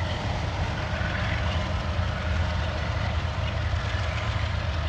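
Freight train's rear diesel locomotive, running as a distributed-power unit, moving away with the cars: a steady low rumble.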